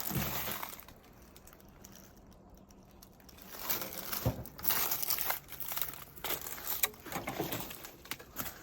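A person's footsteps crunching irregularly over littered ground, beginning about three and a half seconds in after a quiet stretch.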